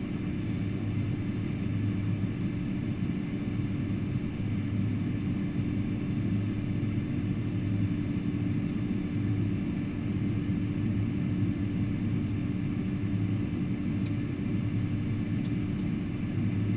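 Steady low rumble with a constant hum inside the passenger cabin of a Boeing 747-400.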